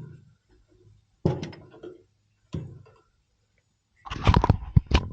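Hand tools and metal parts being handled: three separate knocks, then a quick burst of clattering near the end.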